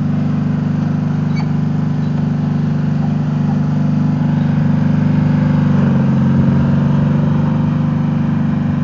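Riding lawn mower engine running steadily. About six seconds in, its note drops slightly and gets a little louder.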